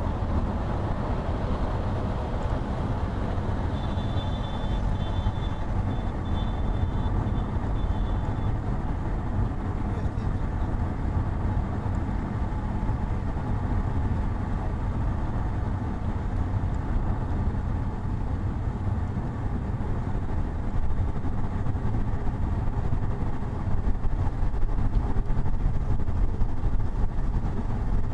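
Steady road and engine noise of a car driving at speed, picked up by a dashcam in the cabin. A faint high-pitched beeping runs from about four to eight seconds in, and the noise grows a little louder near the end.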